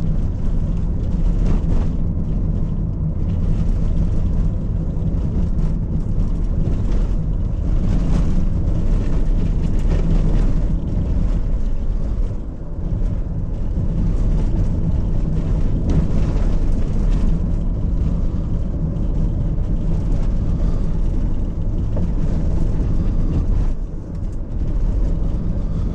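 Car engine running and tyre and road noise heard from inside the cabin while driving over a broken, potholed road, with a few brief knocks and jolts from the bumps.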